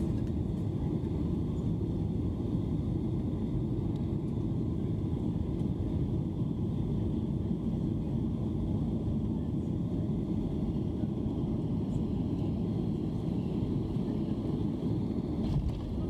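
Steady rumble of a Boeing 737-800's engines and rushing air heard inside the passenger cabin during the descent and landing, even throughout with no sharp thumps.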